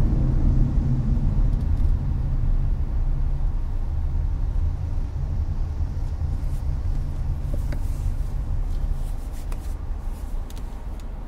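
Steady low road rumble and air-conditioner hiss inside a Hyundai Avante's cabin on the highway, slowly easing off toward the end, with a few faint ticks.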